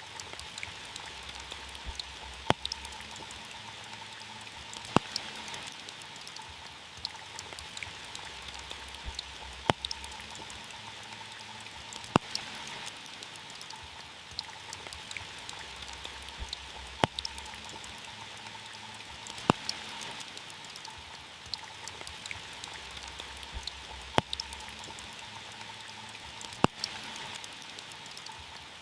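Steady rain falling on a car's roof and glass, with single heavy drops striking sharply every few seconds, in pairs about two and a half seconds apart.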